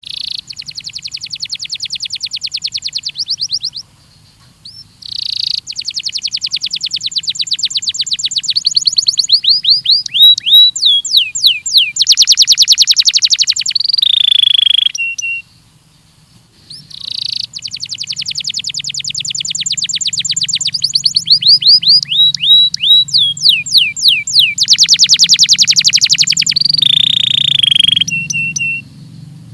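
Belgian canary singing: two long song phrases of very rapid trilled notes, each moving through rolling trills and quick downward-sweeping notes and ending in a few short chirps, with brief pauses between them. A faint low hum runs underneath.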